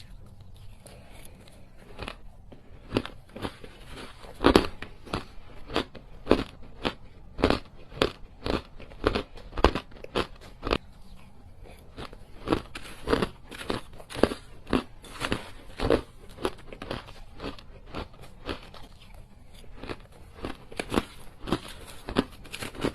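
Small pieces of hard ice being bitten and crunched between the teeth, close to the microphone: a steady run of sharp crunches, one or two a second.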